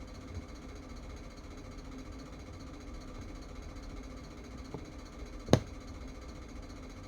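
Steady low hum, with a faint tap about four and three-quarter seconds in and one sharp click or knock about five and a half seconds in.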